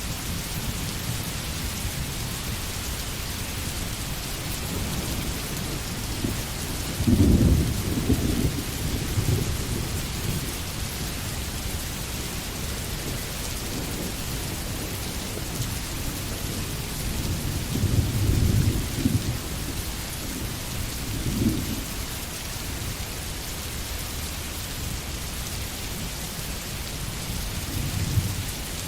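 Steady rain falling in a forest, an even hiss throughout. Low rumbles of thunder swell through it, the loudest about seven seconds in, another around eighteen seconds, a short one a few seconds later, and a last one near the end.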